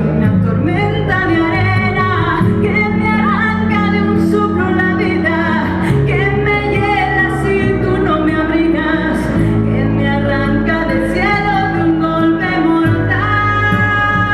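A woman singing a song with a band behind her: a steady bass line under the melody, with cymbal hits keeping the beat.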